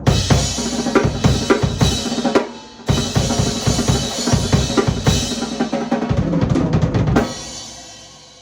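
Canopus Mahogany drum kit played: bass drum, snare and cymbals in a groove, with a short break about two and a half seconds in. A quick fill near the end is followed by the kit ringing out and fading.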